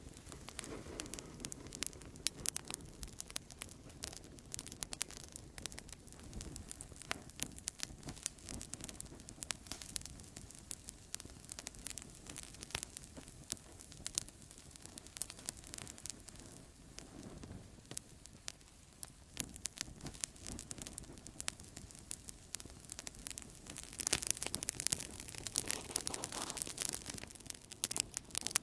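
Outdoor campfire crackling, with a dense run of sharp pops and snaps over a soft low rumble of burning wood. The crackling grows busier and louder for a few seconds near the end.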